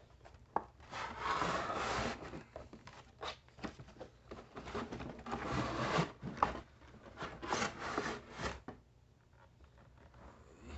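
A cardboard toy box being opened and the boxed toy slid out against the packaging: several spells of rubbing and scraping with a few sharp clicks, dying down near the end.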